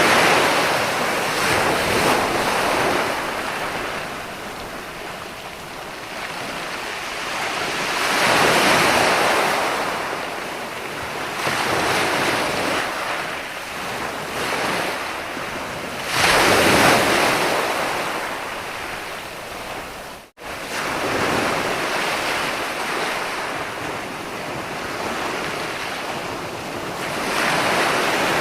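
Ocean surf: waves breaking and washing in, swelling and fading about every eight seconds. The sound cuts out for an instant about two-thirds of the way through.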